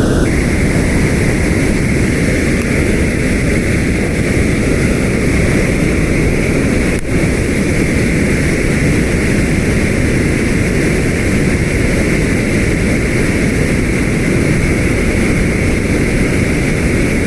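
Steady roar of water pouring over a river spillway.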